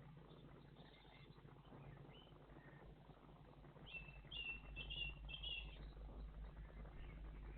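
A small songbird chirping: a quick run of high notes in three short groups about four seconds in, with fainter chirps earlier, over a faint low rumble.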